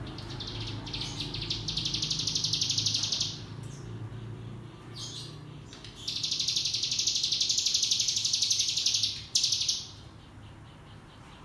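Ciblek gunung, a prinia, singing two long, rapid buzzing trills (the 'ngebren' song), each about three seconds, with a steady low hum underneath.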